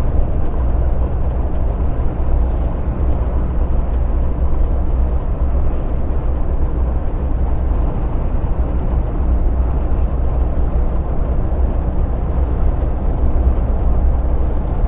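Lorry driving at cruising speed, heard from inside the cab: a steady low engine drone with road and tyre noise.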